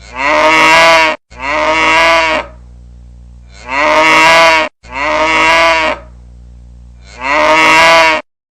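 Cow moo ringtone sound effect: five moos of about a second each, two quick pairs and then a single. A faint steady low hum fills the gaps between them.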